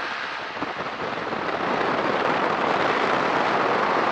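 Rushing wind and engine noise of a Kolb Firefly ultralight in flight, heard from the open cockpit, getting louder about a second and a half in.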